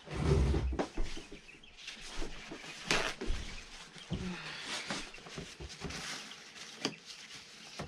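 Knocks, thumps and clicks of plastic brooder feeders and waterers being handled and set down, with birds calling in the background. A loud low thump comes in the first second, and sharp clicks follow about three and seven seconds in.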